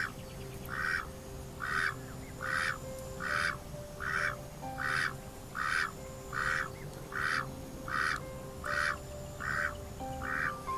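White Pekin duck quacking over and over in a steady rhythm, about one call every 0.7 seconds, each a short nasal quack.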